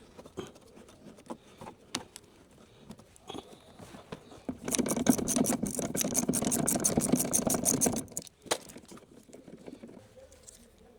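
Scattered light clicks and knocks of hand tools and metal parts being handled, with a run of rapid, even rattling lasting about three seconds in the middle.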